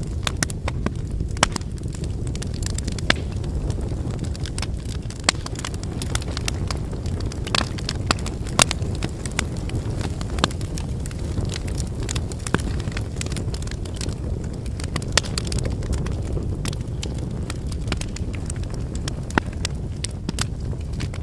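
Wood fire burning: a steady low rush of flames with frequent sharp, irregular crackles and pops from the burning firewood.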